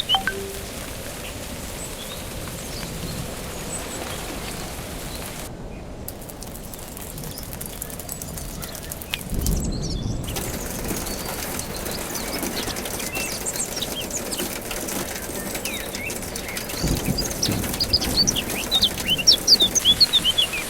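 Steady rain falling, with a small bird chirping in quick runs of high notes near the end.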